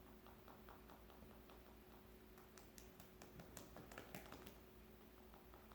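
Faint, quick tapping on a heavy stone-like owl statue, a run of small clicks that grows busier and sharper in the middle.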